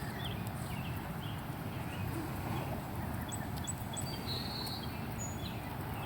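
Outdoor evening ambience by the water: scattered short high chirps from birds, with a brief trill about four seconds in, over a steady low rumble.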